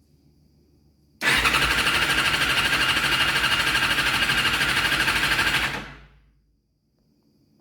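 Yamaha FZ6 inline-four motorcycle engine being cranked by its electric starter for about four and a half seconds, turning over evenly but never firing, then stopping. It is a crank-no-start condition, with the crank position sensor signal under suspicion.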